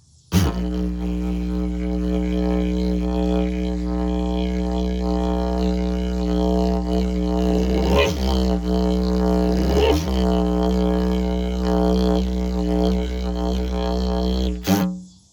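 Handmade PVC didgeridoo tuned to B played as a steady low drone, with changing overtones above it. It starts abruptly about half a second in, dips briefly twice near eight and ten seconds, and cuts off suddenly near the end.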